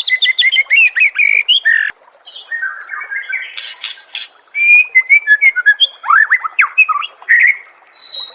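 White-rumped shama (murai batu) singing a fast, varied run of whistles and chirps. The song thins out and goes quieter about two seconds in, then comes back loud and full about four and a half seconds in.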